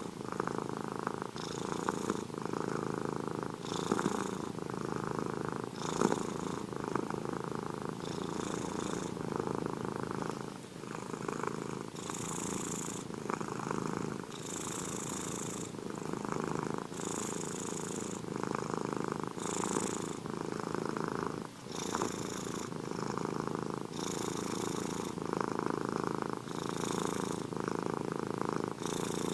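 Domestic cat purring steadily and close, the purr swelling and easing with each breath, about one breath every two and a half seconds.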